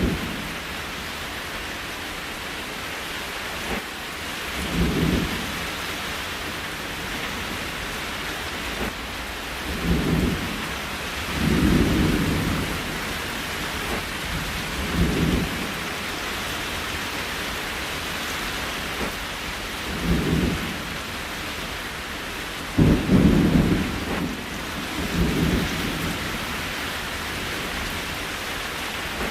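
Steady rain hiss, with short low rumbles like distant thunder every few seconds. The rumbles are strongest and longest about three-quarters of the way through.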